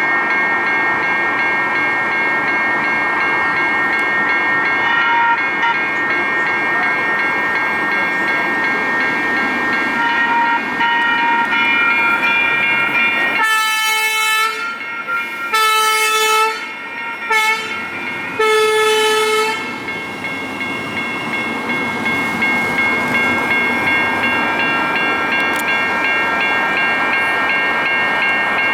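Light rail train sounding its horn in three blasts about halfway through, over the steady whine and running noise of the train.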